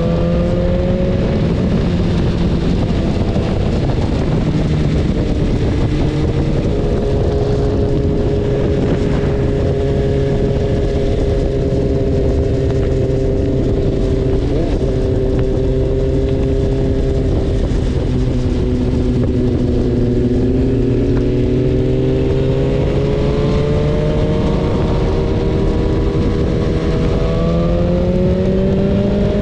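BMW S1000RR inline-four engine running under way, its pitch sinking slowly through the middle and rising again over the last several seconds as the revs change, over a steady rushing noise.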